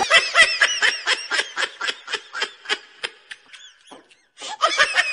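Laughter: a quick run of short 'ha' bursts that fades out, then a brief pause and a fresh burst of laughing near the end.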